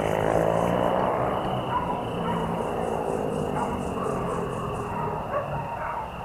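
Evening crickets and other insects chirring steadily in a continuous high trill, with a faster pulsing chirp for a few seconds in the middle.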